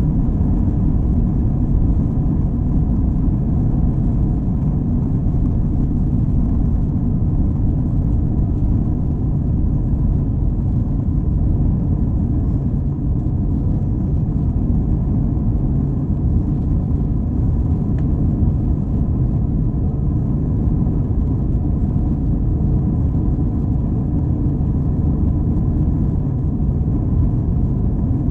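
Airbus A321 cabin noise in flight: a steady, loud low rumble of engines and airflow, with a faint steady hum above it.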